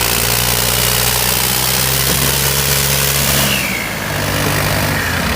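Diesel tractor engine running steadily under a loud even hiss; its note dips briefly about four seconds in, then comes back.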